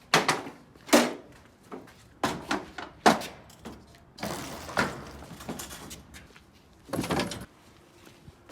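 A series of sharp knocks and bangs about a second apart, like doors or gear being handled, with a stretch of rustling in the middle and one more knock near the end.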